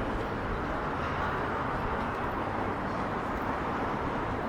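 Steady city street ambience: an even wash of traffic noise with no single event standing out.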